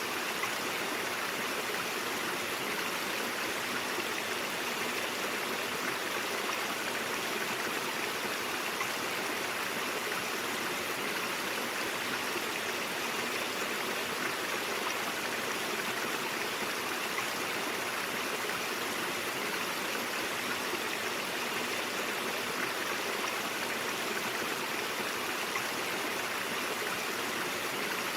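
Stream water flowing and splashing over rocks, a steady rushing babble.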